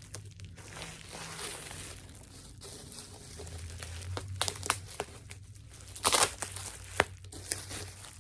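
Packing material being unwrapped by hand, crinkling and tearing in irregular rustles, with a louder burst of crinkling about six seconds in.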